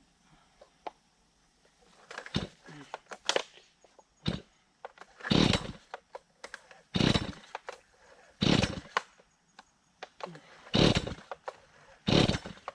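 Chainsaw being pull-started: a series of short, loud rips of the starter cord about every second and a half, with the engine turning over but not catching.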